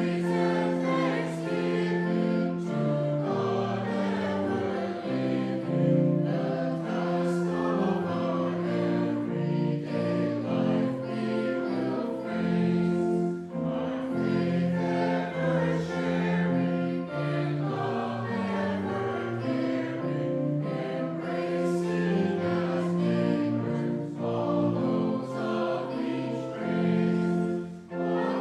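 Voices singing a hymn together with instrumental accompaniment, held chords under a moving melody, starting on a new verse after a short pause.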